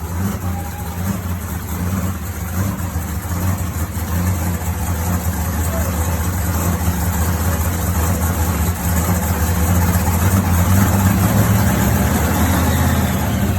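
Supercharged Chevy truck engine running loud and steady at idle, its low note unchanging, then cutting off right at the end.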